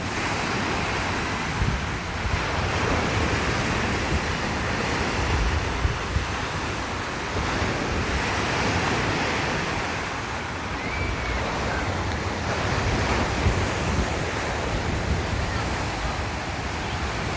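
Waves on Lake Erie washing onto the shore in an even, surging rush, with wind buffeting the microphone. The lake is rough after several days of storms.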